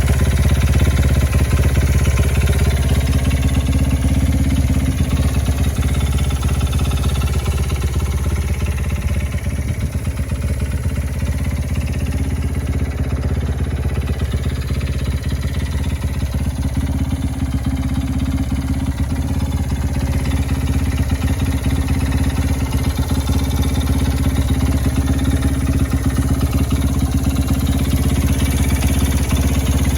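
Single-cylinder four-stroke motorcycle engine, a Honda Ape 100 engine bored to 115cc, idling steadily.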